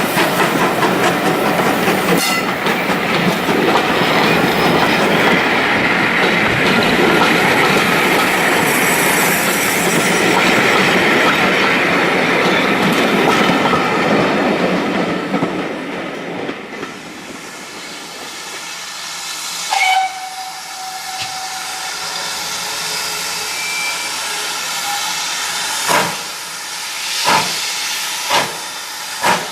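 Steam-hauled train passing close, a loud rush of running noise and hiss that eases after about sixteen seconds. A short whistle note sounds about twenty seconds in. Near the end a steam locomotive gives slow, sharp exhaust beats, about one a second.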